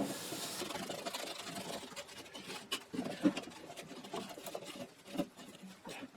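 Steel wool dampened with acetone scrubbing surface rust off bare metal: an irregular scratchy rubbing with occasional light clicks.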